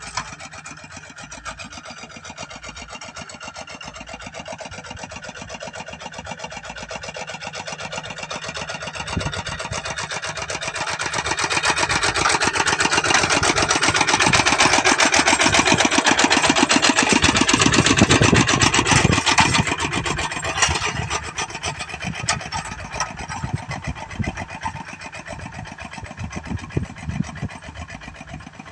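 A small engine running steadily. It grows louder over the first dozen seconds, stays loudest for several seconds, then fades away again.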